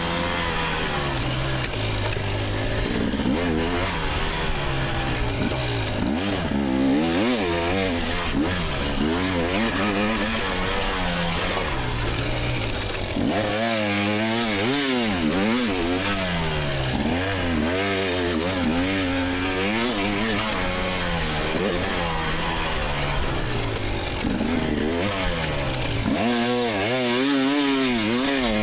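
2024 GasGas EX300 two-stroke single-cylinder dirt bike engine revving hard and easing off over and over, its pitch rising and falling every second or so as the throttle is worked.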